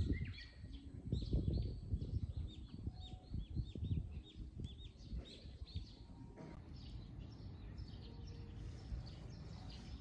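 Small birds chirping repeatedly, a quick run of short high chirps, thinning out about six and a half seconds in, over a low rumble of wind on the microphone.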